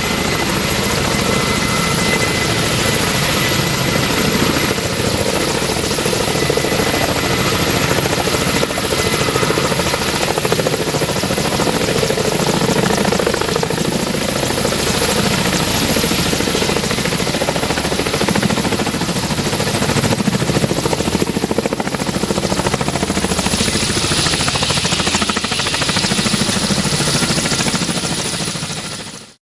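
Kamov Ka-32 helicopter running close by: a steady high turbine whine over a pulsing low beat from its coaxial rotors. The sound cuts off abruptly near the end.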